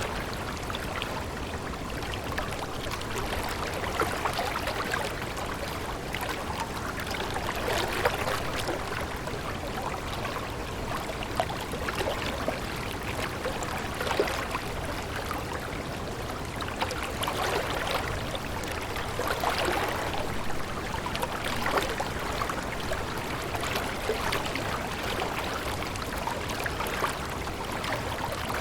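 Water flowing and splashing steadily, with irregular louder swells and small drips.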